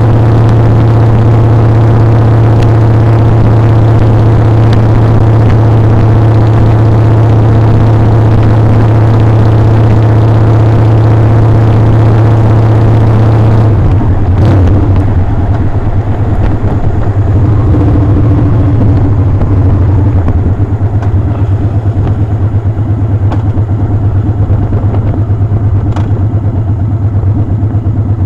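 Motorcycle engine running steadily at cruising speed with wind hiss, then about halfway through the revs drop and the engine carries on at a lower, pulsing speed as the bike slows.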